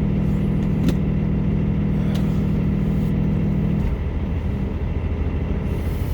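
Idling semi-truck diesel engine: a steady low rumble, with a steady hum on top that cuts off about four seconds in. A single short click about a second in.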